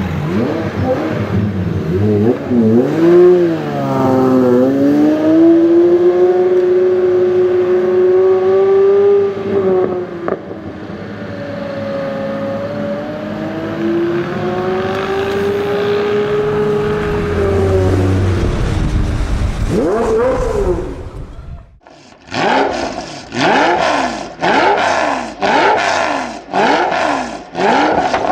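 Pagani Zonda 760 VR Roadster's V12 engine running, its pitch rising and falling slowly over several seconds. Near the end, after a sudden break, a run of short loud bursts comes about once a second.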